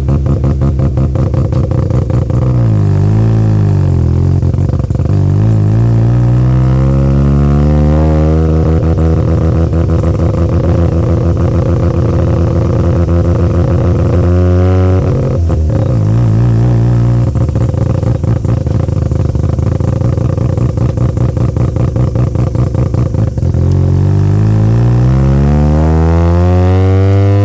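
Mazda RX-7 FD3S's 13B twin-rotor rotary engine running hard, its pitch climbing slowly twice. About halfway through it rises and drops sharply once, with a long steady stretch before the final climb.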